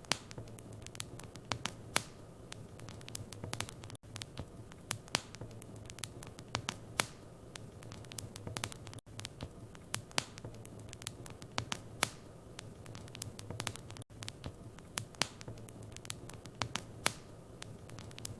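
Wood fire in a fireplace crackling, with irregular sharp pops over a steady low hum.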